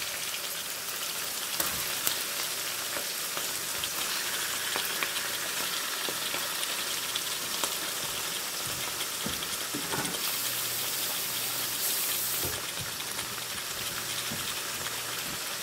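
Diced raw chicken and sliced onions sizzling in hot oil in a nonstick wok: a steady frying hiss with a few faint pops.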